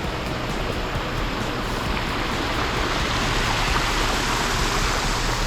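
Swift, swollen floodwater rushing through a flooded creek crossing: a steady rushing noise that grows a little fuller about two seconds in.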